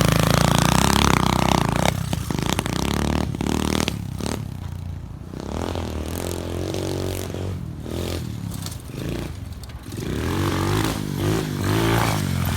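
SSR 125 pit bike's single-cylinder four-stroke engine being ridden: loud for the first couple of seconds, quieter through the middle, then revving up and down louder again near the end.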